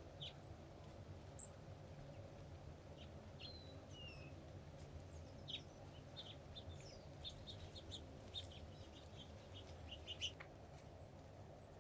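Wild birds chirping faintly: scattered short, high calls, then a quicker run of chirps through the second half, over a steady low background rumble.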